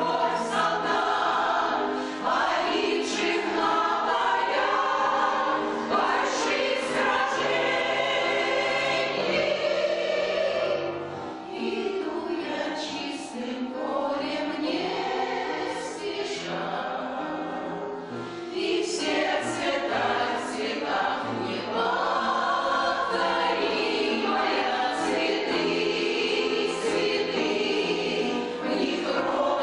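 A choir of elderly amateur singers singing a song together in many voices.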